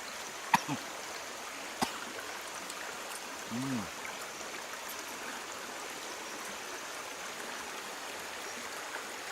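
Steady rush of flowing water, like a stream. Two sharp clicks come about half a second and two seconds in, and a brief low voice sound about three and a half seconds in.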